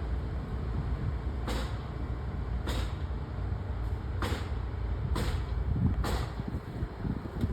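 Wind rumbling on the microphone, with six short hissing swishes about a second apart.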